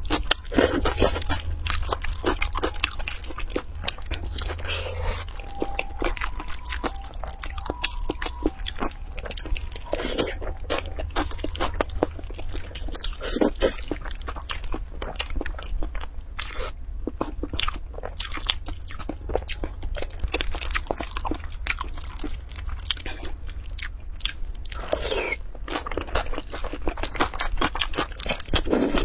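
Close-miked eating sounds: biting into and chewing sauce-soaked braised hard-boiled eggs and onion slices, with many quick, irregular crunches and mouth clicks.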